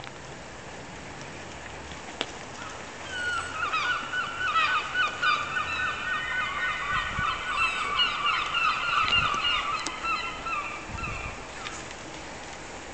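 Several seagulls calling over one another in a dense run of short, repeated squawks, starting a few seconds in and dying away near the end.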